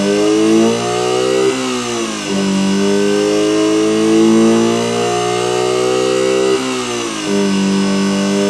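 Homemade optical engine-sound generator imitating a Subaru EJ20 boxer with equal-length exhaust, revving racing-style. The pitch climbs, drops sharply about a second and a half in, holds high, then drops again about six and a half seconds in.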